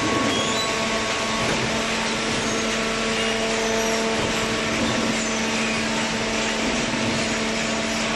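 Open-ended cardboard baler running steadily: a constant mechanical noise with a steady hum and a few steady higher tones.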